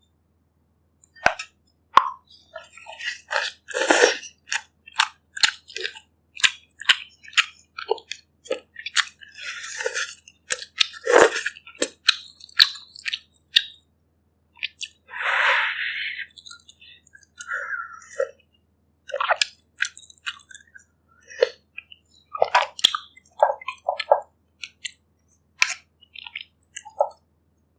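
Close-miked eating sounds of a person eating bak kut teh, pork ribs in herbal broth: chewing with many short wet mouth clicks and smacks in an uneven rhythm. One longer sound comes about halfway through.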